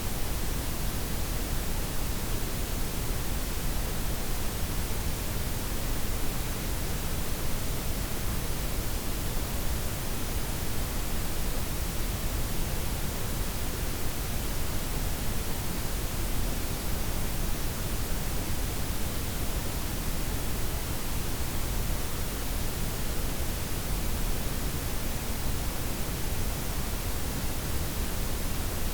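Steady synthetic noise blending white, pink and brown noise, heaviest in the deep low end with a softened top. It runs unchanged with no events.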